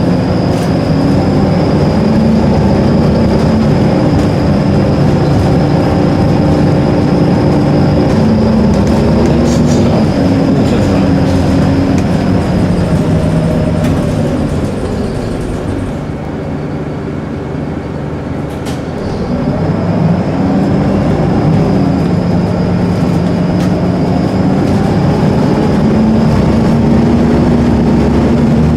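Diesel bus engine running under way, its pitch climbing and falling as it works up through the gears, easing off briefly about two-thirds of the way through before pulling again. A thin high whine runs over it and drops out during the lull.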